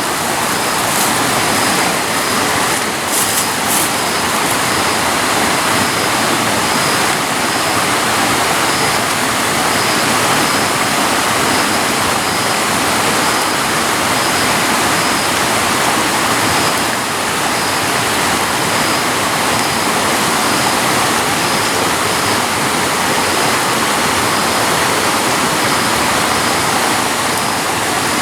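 Steady, loud rushing of flowing water, like a jungle stream or small waterfall, with a faint high-pitched tone pulsing at an even pace above it.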